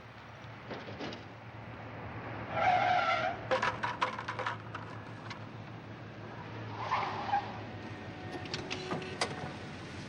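A car driving, its tires squealing briefly about two and a half seconds in and again about seven seconds in, with scattered clicks and knocks in between.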